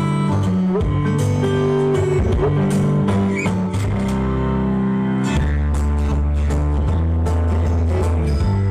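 Loud music played through a large sound system being tested, with plucked guitar-like notes over a band, and a deep, heavy bass note coming in a little past halfway.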